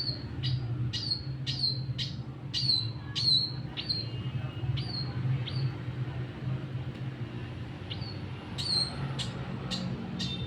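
A bird chirping over and over, short sharp falling calls about one to two a second, with a pause of a couple of seconds midway. A steady low hum runs beneath.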